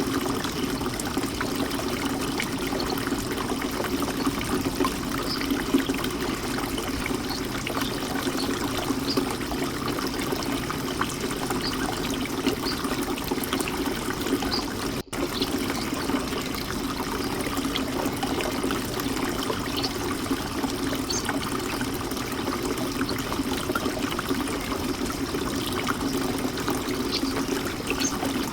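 Birdbath fountain water splashing and trickling steadily. It drops out for an instant about halfway through.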